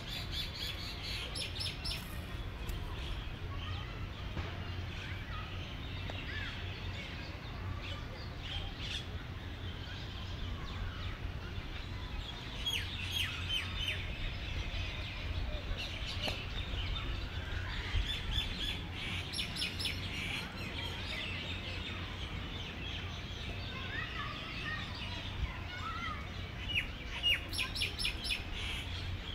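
Small birds chirping in bursts of quick, repeated high notes, several times over, with a steady low rumble underneath.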